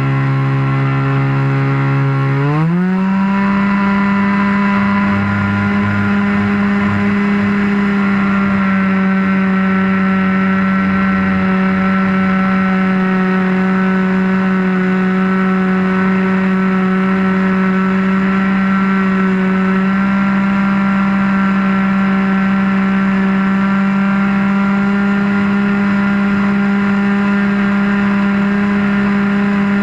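RC airplane's motor running, heard up close from a camera mounted on the wing. About two and a half seconds in it speeds up with a quick rise in pitch as the throttle opens, then holds a steady high note.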